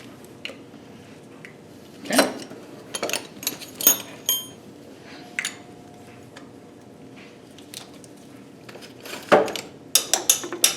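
Metal hand tools clinking and knocking as they are handled: wrenches and sockets tapping against each other and the engine. There is a short ringing clink about four seconds in and a quick run of clicks near the end.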